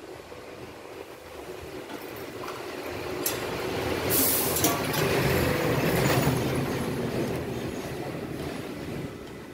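A large vehicle passing by: a rumble that swells to its loudest about five to six seconds in, then fades.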